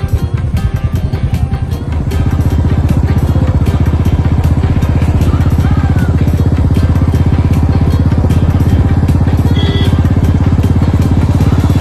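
Royal Enfield Bullet's single-cylinder engine running with an even, steady beat, a little louder from about two seconds in.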